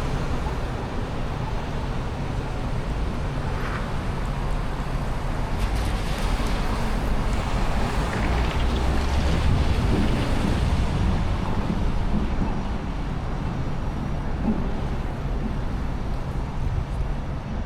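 Downtown street traffic: a steady rumble of passing vehicles, swelling around the middle of the stretch as one passes close.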